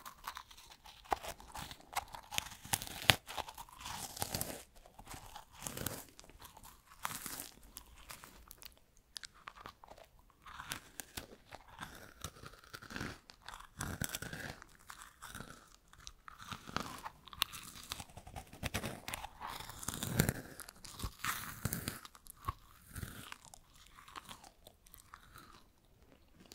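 Close-up crunching and chewing of freeze-dried strawberries: dry, crisp pieces crackling between the teeth in many irregular crunches.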